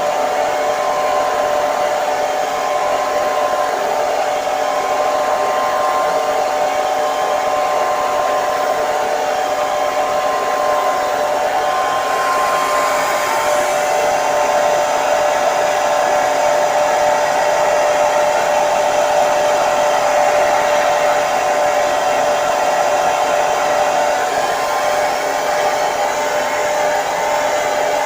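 Hair dryer running steadily: a constant airflow rush with a steady motor whine.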